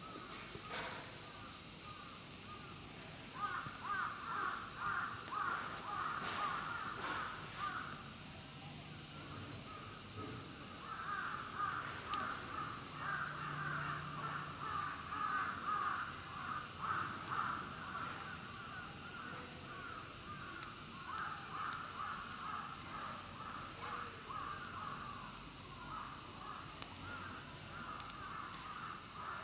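Steady, high-pitched chorus of summer insects, most likely cicadas, with bouts of rapid repeated calls from a bird or other animal coming and going every few seconds.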